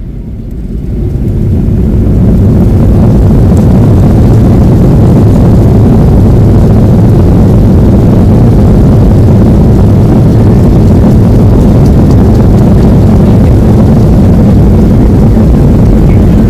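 The Boeing 737-700's two CFM56-7B jet engines spooling up to a loud, steady roar, heard from inside the cabin. The roar builds over the first two seconds, then holds.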